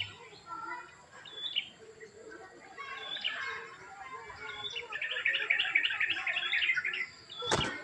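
Small birds chirping and twittering, with a fast run of rapid twitters in the second half, then one sharp click near the end.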